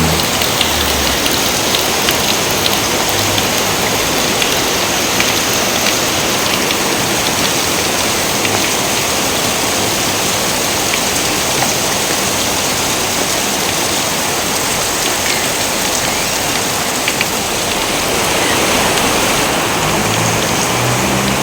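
Steady heavy rainfall, a dense even hiss of drops. A low thunder rumble dies away about a second in, and another begins to build near the end.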